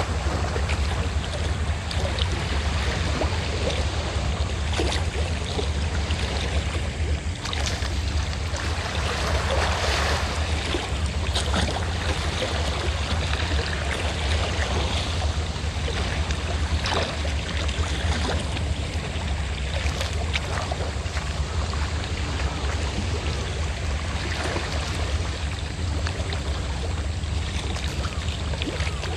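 Sea waves washing in a steady rush, with the low, even drone of a fishing boat's engine running beneath them.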